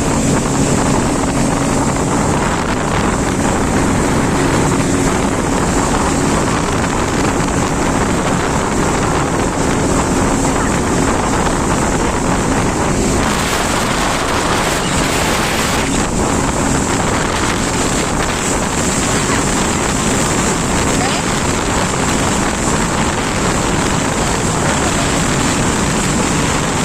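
Jet ski engine running steadily at speed, with water rushing and wind buffeting the microphone; a louder rushing hiss comes for a few seconds about halfway through.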